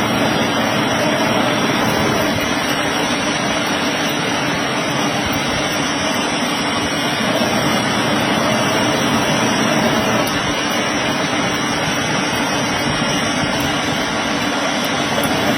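Large old metal-working lathe running: a loud, steady mechanical drone with a faint whine above it.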